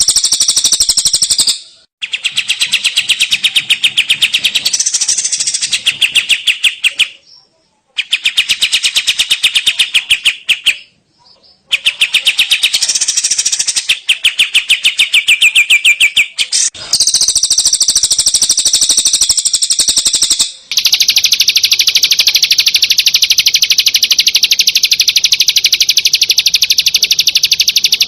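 Recorded songbird song used as masteran training audio for a long-tailed shrike: rapid, high, fast-repeating chirping trills. Several separate recordings are spliced together with abrupt cuts, about six in all, with a brief gap between each.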